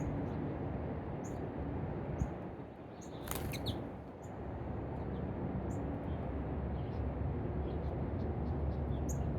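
Small birds at a feeder giving short, high chirps every second or so, with one louder call about three and a half seconds in, over a steady low rumble.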